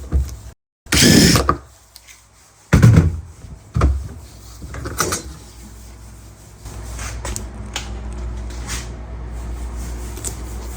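Loud knocks and clunks of refrigerator parts being worked loose and handled, several in the first few seconds, then a steady low hum.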